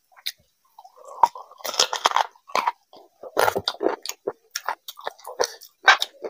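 Close-miked chewing of chicken leg meat and khichdi: an irregular run of wet mouth clicks and short crunchy bursts, densest about two seconds in and again past the middle.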